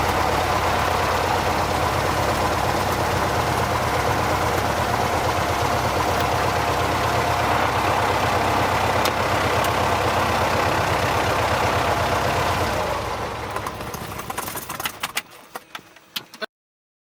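Cessna 172's piston engine running steadily at idle with an even low throb. Near the end the sound falls away over a couple of seconds, with a few sharp clicks before it cuts off.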